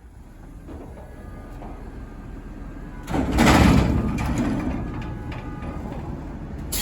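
Garbage truck engine running low, then about three seconds in it revs up hard with a sudden loud surge, the pitch easing down as it slowly settles.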